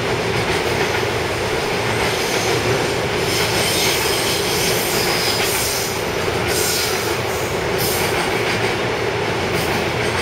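Electric train running along the station track: a steady rumble of wheels on rail, with short high wheel squeals a few times.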